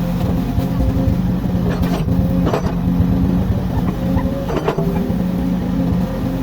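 Komatsu excavator's diesel engine running steadily while it works, with a couple of short knocks about two and a half and four and a half seconds in.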